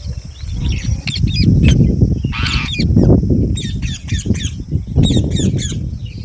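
Indian ringneck parakeets squawking: a harsh squawk about two and a half seconds in, and runs of short screeches in the second half, over a loud low rumble.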